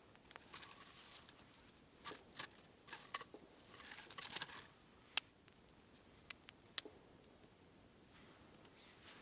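Close rustling and crinkling with scattered sharp clicks, like small things being handled. The longest crinkly rustle comes near the middle, followed by two louder clicks.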